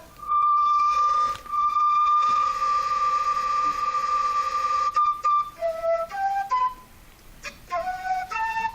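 Granular synthesis engine in SuperCollider, played from capacitive touch sensors: one pitched tone held for about five seconds, then short notes stepping upward in pitch in two quick runs.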